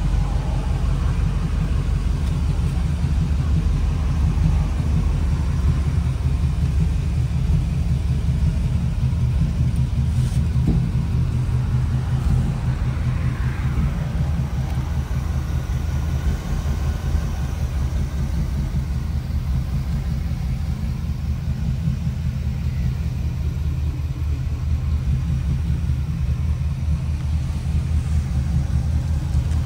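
The 1956 Ford F100 panel truck's 327 V8 running steadily, with a deep, even exhaust note.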